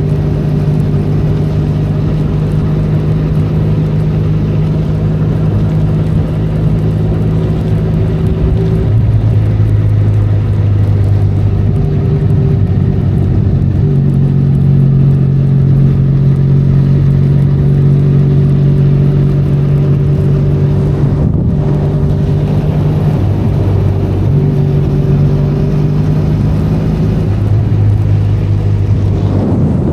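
Benelli Leoncino 500 parallel-twin motorcycle engine running under way at steady revs, its pitch stepping down and up several times with throttle and gear changes, with a brief break in the sound about two-thirds of the way through. A steady hiss of rain and wind runs underneath.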